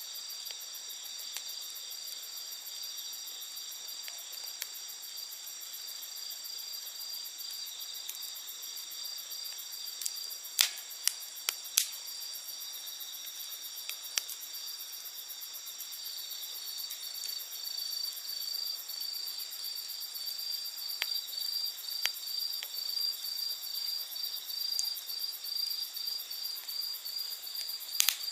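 Night insects trilling steadily in several high, thin tones, one of them pulsing about two to three times a second in the second half. Over them, a campfire crackles with a few sharp pops, the loudest in a cluster about ten to twelve seconds in and again near the end.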